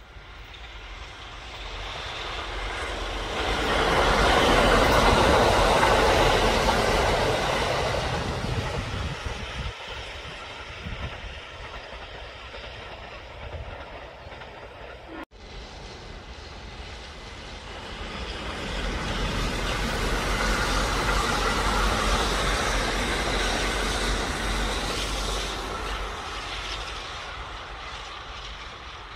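Train running on rails: the rumble swells and fades twice, with a sudden break about halfway through.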